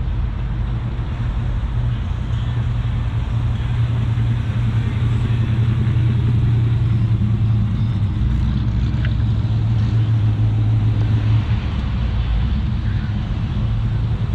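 Car engine running at low speed, a steady low hum whose tone shifts about eleven seconds in.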